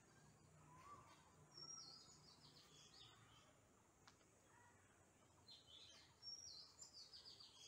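Faint birdsong: quick high chirping phrases from a small songbird, once about a second and a half in and again about six seconds in.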